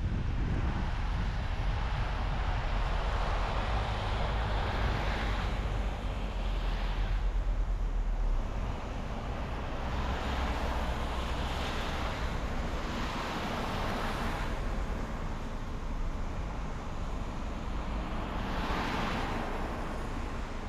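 A car driving along the road: steady tyre and road noise over a low rumble that drops off about eight seconds in, with a hiss that swells and fades about five times.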